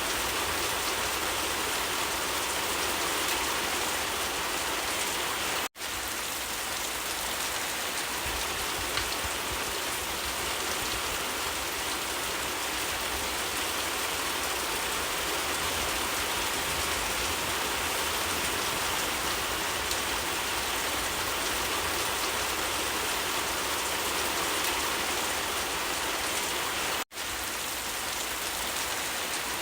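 Steady, even rain falling, a continuous hiss of drops. The sound cuts out for an instant twice, once about six seconds in and once near the end.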